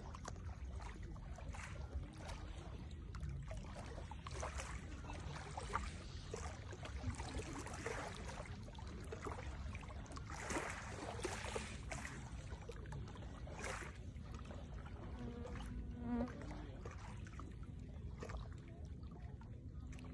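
Lake water lapping at the edge with many small irregular splashes over a steady low rumble.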